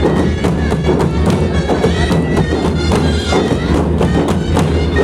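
Dhol drums beaten in a fast, dense rhythm, with a wind instrument holding sustained notes over them: traditional procession music.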